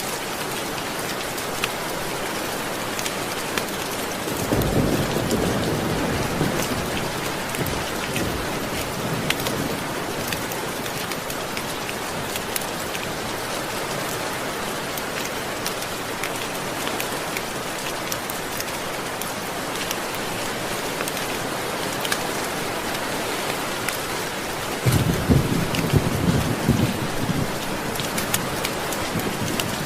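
Steady heavy rain falling, with two rolls of thunder, one about four seconds in and a louder, rumbling one near the end. Scattered sharp ticks sit over the rain throughout.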